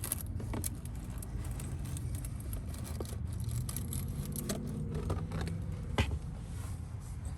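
Cabin air filter being slid out of its plastic housing: scraping and rustling of the pleated filter frame against plastic, with scattered clicks and one sharper knock about six seconds in.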